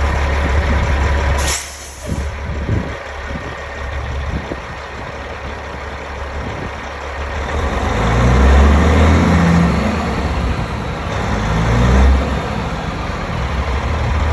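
Diesel engine of a 2019 Peterbilt 389 sleeper truck running, with a short sharp hiss of released air from its air brakes near the start. In the second half the engine is revved up twice.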